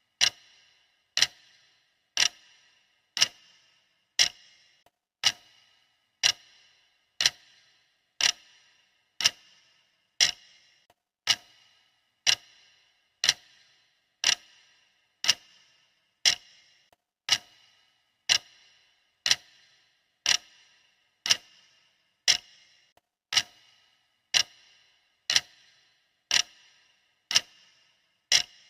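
Steady clock ticking, one sharp tick about every second.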